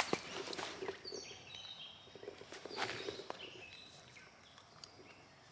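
A sharp step or knock at the start, then a few scattered footsteps outdoors, with short, high bird chirps repeating through the first few seconds before it quiets down.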